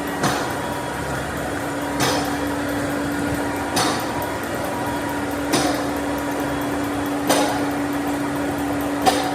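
Hammer blows at a slow, very even pace, one about every second and three-quarters, six in all, over a steady machine hum.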